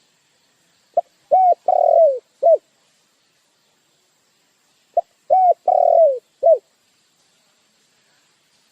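A dove cooing: two identical phrases about four seconds apart, each a short note followed by three coos that fall in pitch, the middle coo the longest.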